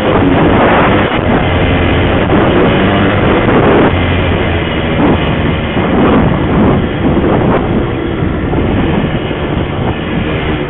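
Honda CR250R dirt bike's two-stroke single-cylinder engine under hard throttle while riding. It comes in loud all at once and rises in pitch several times as it revs up through the gears.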